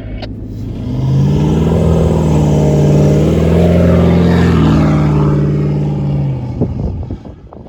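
Dirt bike engine opening up and running hard at steady revs, then backing off near the end.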